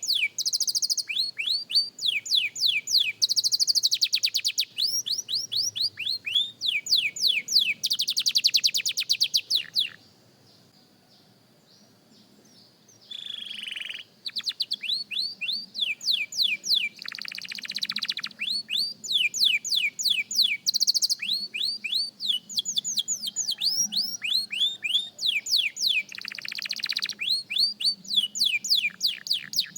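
A young canary singing its practice song: rolls of quick, repeated downward-sweeping notes and fast buzzy trills. It breaks off for about three seconds a third of the way through, then takes up the song again.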